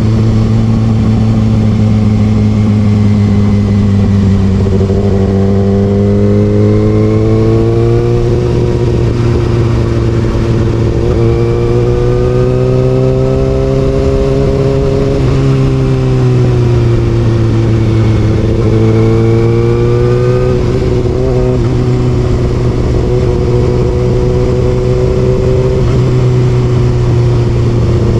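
Kawasaki Ninja ZX6R inline-four engine with an Austin Racing exhaust, running under way. Its note rises and eases off several times as the throttle opens and closes.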